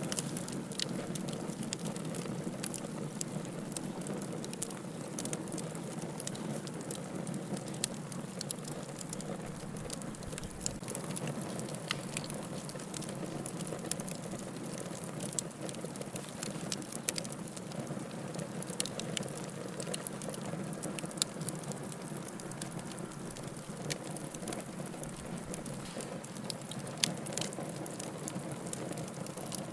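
Firewood burning in a fireplace: a steady low rush of flames with frequent irregular crackles and snaps, and a couple of louder pops.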